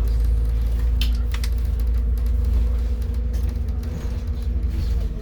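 Scania N280UD CNG double-decker bus running steadily, heard from inside on the top deck: a deep engine and drivetrain rumble with a steady hum, and a few light rattles from the body.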